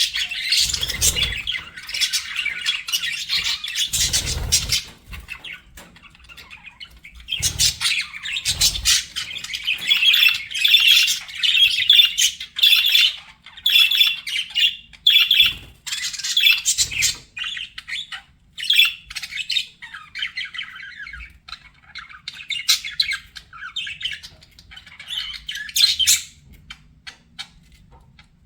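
Budgerigars chattering: rapid high chirps and squawks in bursts, with a lull about a quarter of the way in and another near the end. A few soft low thumps come in among the calls.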